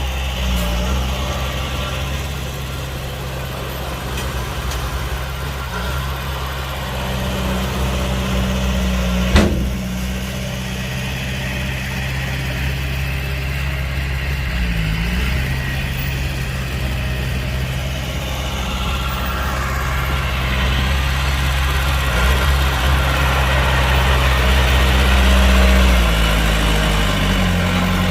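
Heavy diesel engine of earthmoving machinery running steadily at idle, with one sharp knock about nine seconds in. The engine noise grows louder and busier over the last third.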